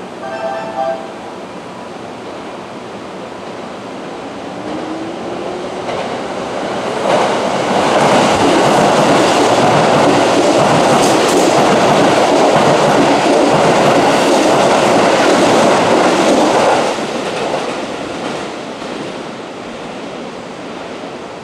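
A Keihan 3000-series electric train passes through the station at speed without stopping. Its rumble builds over several seconds and stays loud for about ten seconds, with a run of sharp clicks near the middle as the cars go by. It then dies away as the train leaves.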